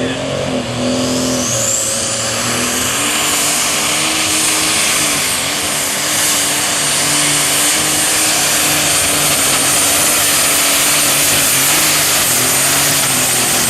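Super stock pulling tractor's turbocharged diesel engine running hard under full load during a pull. A high turbo whistle rises about two seconds in and holds, and near the end the whistle and the engine note drop off together as the engine backs off.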